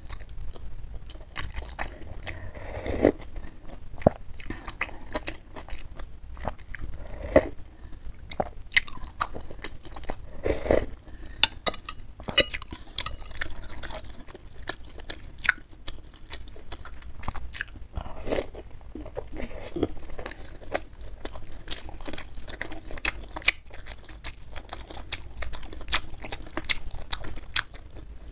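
Close-up chewing of beef meatball soup: wet mouth sounds with many small clicks and smacks, and a few louder bites or slurps.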